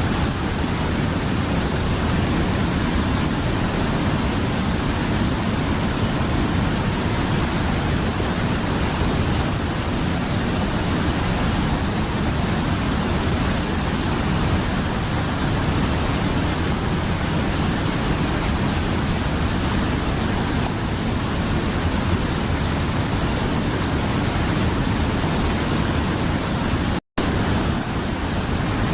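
Mountain river flowing: a steady, full rush of water over rocks. The sound cuts out for a split second near the end.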